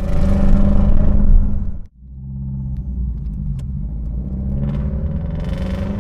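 Modified Nissan SR20DE four-cylinder with aggressive cams and individual throttle bodies, running with a loud, rough rumble, the misfire the owner is showing. The sound cuts out abruptly almost two seconds in, then comes back quieter and runs on.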